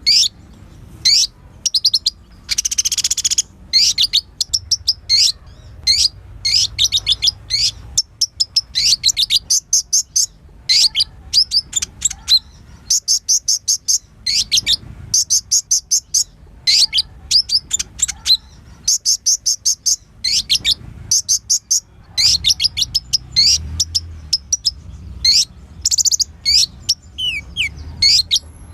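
Kolibri ninja sunbird singing energetically: rapid runs of sharp, high, quickly falling chirps with short pauses between runs, and a buzzy trill about three seconds in.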